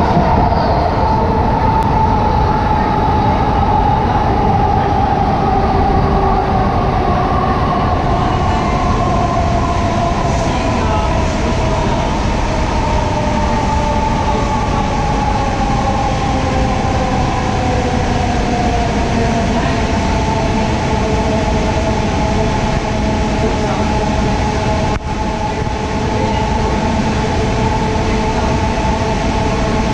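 AirTrain JFK car running on its elevated guideway, heard from inside: a steady rumble of the car over the track with an electric whine from its drive that slides slowly down in pitch over the first half and then holds level.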